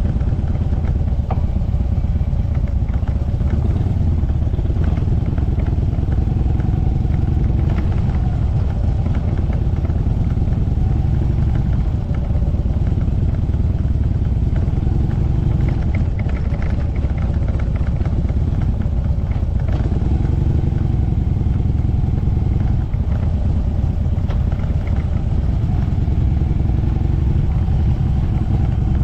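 Motorcycle engine running steadily, with a heavy low rumble.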